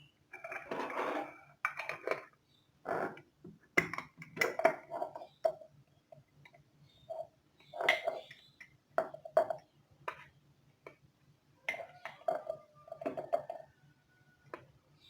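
Hard objects knocking and clinking as they are handled, in irregular short bursts, over a faint steady hum.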